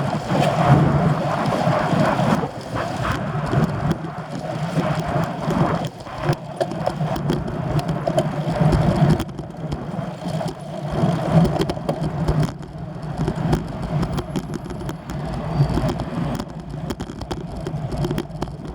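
Riding noise from a road bicycle on the move: an uneven rush with frequent small rattling clicks.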